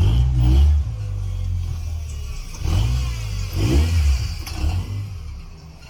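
Car engine revving in several blips of the throttle, dropping back between them and easing off near the end.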